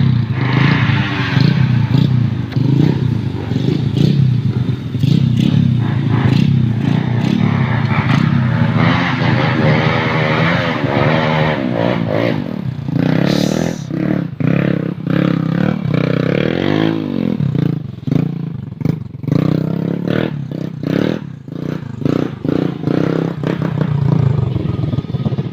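Motorcycle engine being warmed up and revved, its pitch rising and falling again and again; in the second half it runs in a choppy, stuttering way, with many short uneven blips.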